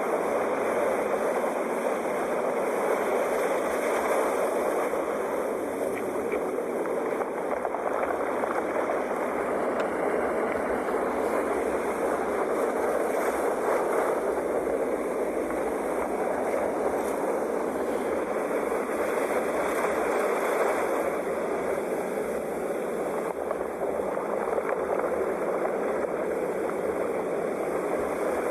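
Sea waves: a continuous rush of surf that swells and eases slowly, with no separate crashes.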